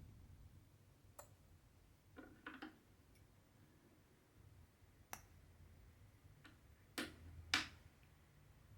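Scattered small clicks and taps from cross-stitch handling in a quiet room. A few come singly, a short cluster comes a couple of seconds in, and the two loudest fall about half a second apart near the end.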